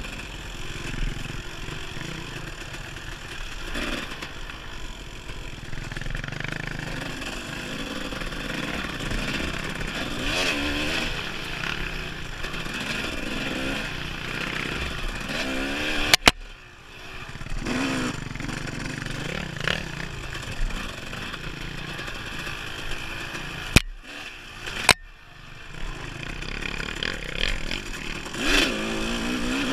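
Dirt bike engine on a trail ride, revving up and down as the throttle opens and closes. Three sharp, loud knocks stand out, one about halfway through and two close together near the end, each followed by a brief drop in the engine sound.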